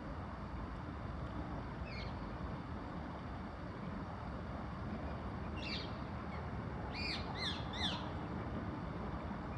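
Several bird calls: one about two seconds in, then a quick series of four or five short, arching calls near the middle. They sit over a steady low rumble.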